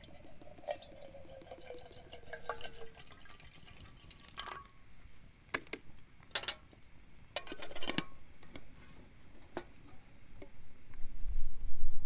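Clinks and knocks of small camp utensils, with a liquid sound and a faint tone sliding down in pitch over the first few seconds; a low rumble starts near the end.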